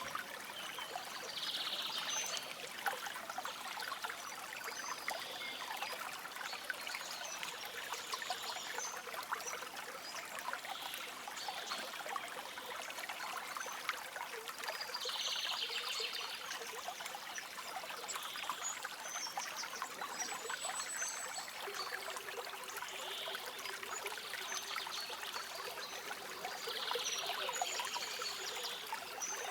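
Small stream trickling and babbling steadily, with brief higher-pitched bursts every several seconds.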